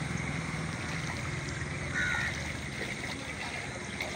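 Outdoor ambience with a steady low hum and a single short bird call about two seconds in.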